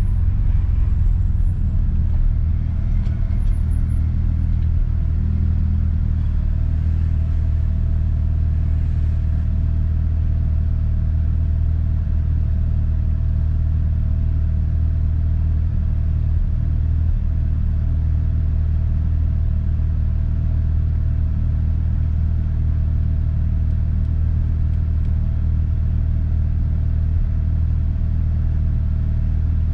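Mazda RX-7 FD's twin-rotor 13B rotary engine idling steadily, heard from inside the cabin as a low, even drone. A faint steady higher tone sits over it from about two seconds in.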